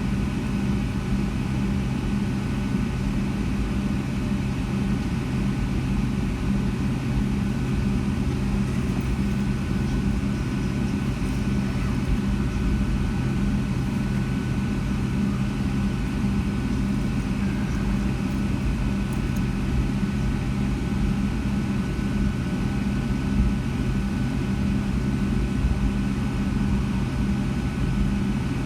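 Steady cabin noise inside a Boeing 757-200 taxiing on the ground: engines at idle, with a constant low hum and a few steady tones under the rush of air.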